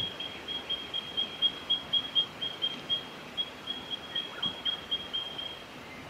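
A bird calling: a steady series of short, high notes at one pitch, about four a second, stopping shortly before the end.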